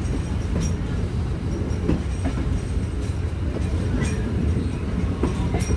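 Train rolling along the track: a steady low rumble of wheels and running gear, with a few scattered clicks and clanks as the wheels pass over the rail joints.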